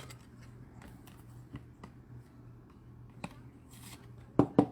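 Trading cards and plastic holders being handled on a table: scattered light clicks and rustles, then three sharper taps in quick succession near the end.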